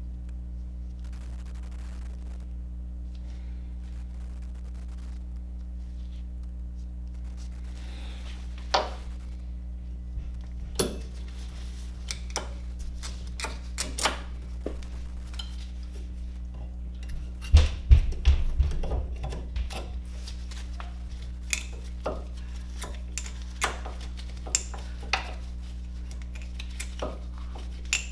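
Metal tools and brake parts clinking and clanking as they are handled, a scattering of sharp knocks with a quick cluster of louder clanks about two-thirds of the way in, over a steady low hum.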